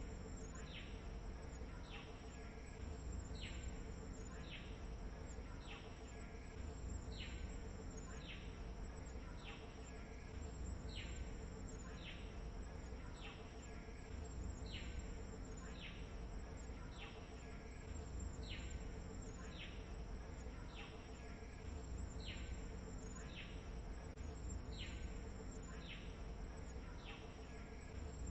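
Insects droning steadily, with a short high note that falls in pitch repeated a little more often than once a second.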